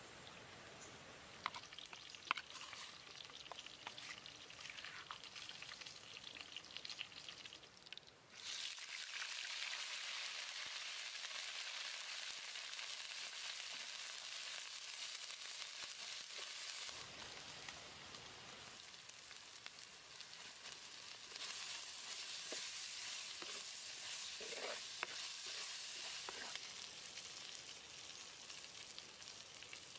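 Spice paste frying in hot oil in a wok, a steady sizzling hiss, with a spatula stirring. The sizzle is faint at first with a few sharp clicks, turns suddenly loud about a third of the way in, eases past the middle and rises again.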